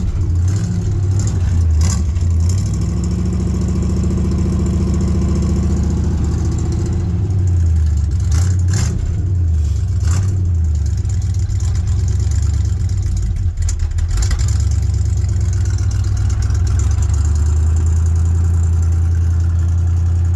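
1981 Ford Bronco's carburetted V8 running just after a cold start with no choke. The engine speed rises and falls as the throttle is worked to keep it from stalling.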